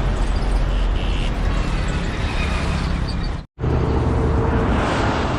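Hino FG 1J ten-wheeler truck's diesel engine running with road noise, a steady, loud rumble. The sound cuts out for a split second about three and a half seconds in, then carries on.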